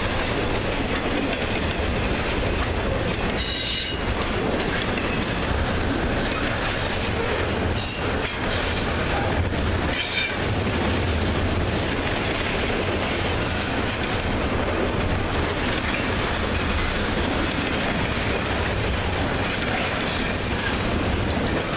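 Intermodal freight train's trailer flatcars and double-stack container well cars rolling past: a steady, loud rumble and clatter of steel wheels on rail, with a few brief high wheel squeals.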